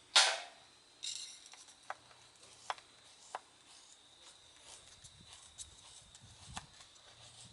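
Firewood cracking: one loud sharp crack just after the start, then a few irregular sharp snaps and clicks of wood over the next few seconds.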